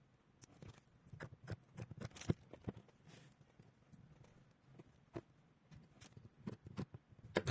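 A series of short, sharp clicks and snaps at an irregular pace, a few a second, from a battery spot welder joining connecting strips to the bottom of a vacuum cleaner's battery cells.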